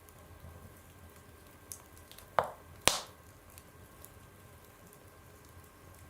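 Wood fire burning in a stove firebox, crackling with faint scattered ticks and two sharp loud pops about half a second apart near the middle.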